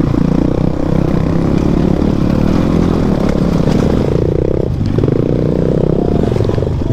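Motorcycle engine running under way on a dirt track, its pitch shifting with the throttle about four to five seconds in.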